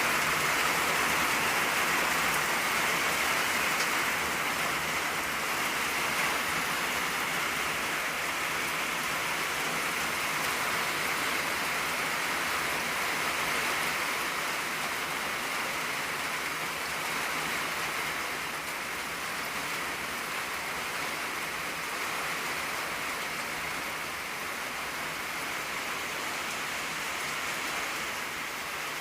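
Steady rain on an old tin roof: a dense, even patter with no single drops standing out, easing a little in loudness over the second half.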